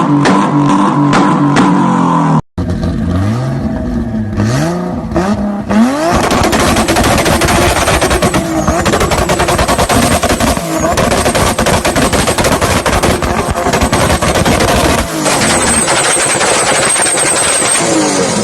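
Guitar music briefly, then a turbocharged car engine revving in quick rising blips and held on its 2-step launch-control rev limiter, the exhaust crackling and banging in a rapid, continuous stream of pops.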